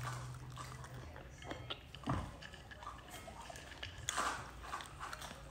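A person chewing food close to the microphone, with scattered small clicks and a dull knock about two seconds in.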